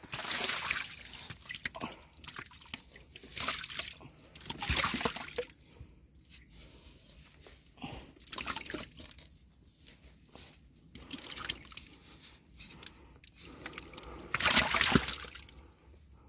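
Dry nest material rustling and crackling in irregular bursts as hands pull a bird's nest open to reach the chicks inside, with louder rustles about a third of the way in and near the end.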